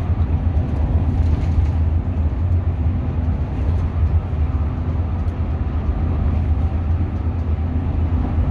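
Hino RM 280 coach driving on the road: a steady low engine drone with continuous road rumble.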